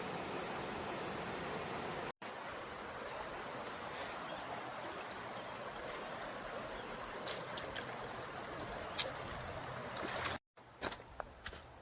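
Steady rush of flowing creek water, an even hiss broken by two abrupt dropouts, one about two seconds in and one near the end. After the second dropout it is quieter, with a few light clicks.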